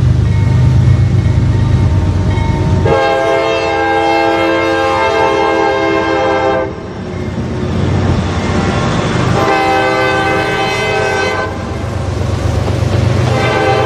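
Locomotive air horn on a CSX freight train sounding a chord in blasts: a long one about three seconds in, a shorter one about two seconds later, and another starting near the end. Between the blasts there is a low rumble of the passing train.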